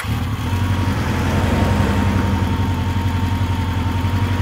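Car engine idling steadily, a low rapid pulsing with a faint steady whine over it.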